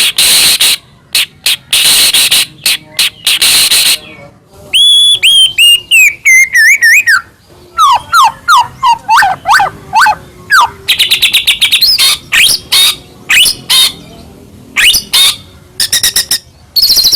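White-rumped shama singing loudly in a long varied song: a run of harsh rasping bursts first, then clear whistled notes gliding downward, quick falling notes and fast trills mixed with sharp clicks.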